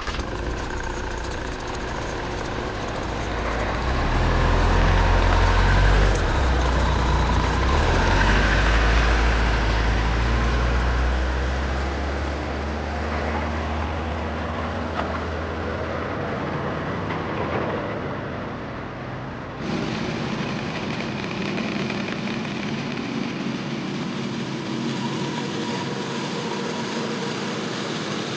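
Heavy farm-machine engine running steadily, with a deep rumble that swells for several seconds and then eases off. The sound changes abruptly about two-thirds of the way in.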